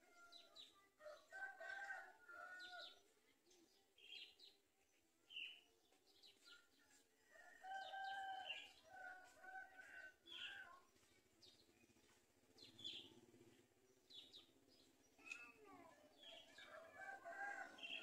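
Faint bird calls: scattered short high chirps, and several runs of two or three held, lower calls in quick succession.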